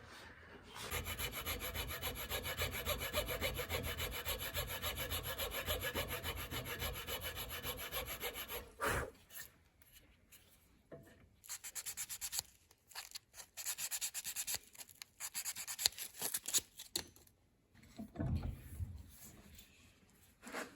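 A power tool running while the new replacement mixer knob is shaped against an abrasive, a steady rubbing grind for about eight seconds, then several short bursts of grinding.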